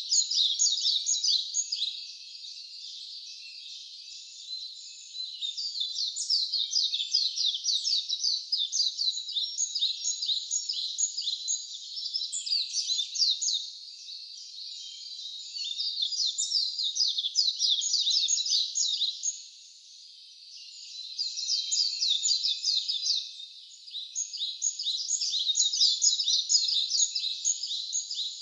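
Wild birds chirping in dense, rapid runs of short, high, downward-sweeping notes. The runs come in bursts with brief lulls between them.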